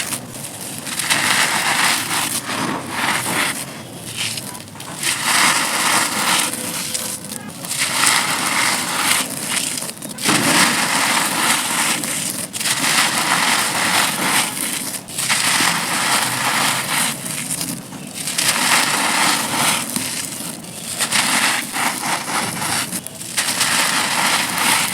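Dry red dirt cookies being crushed and crumbled, a gritty crunching and crackling that comes in bouts of about two to three seconds, each followed by a short pause.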